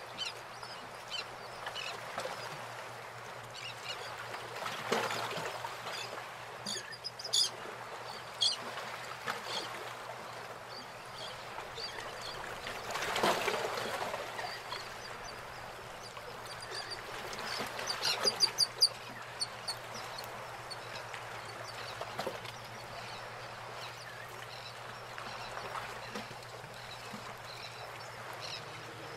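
Birds calling now and then, with a quick run of repeated calls a little past halfway, over a steady low hum and hiss.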